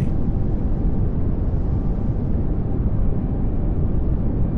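Steady pink noise, an even hiss weighted heavily toward the bass with little treble, running without change.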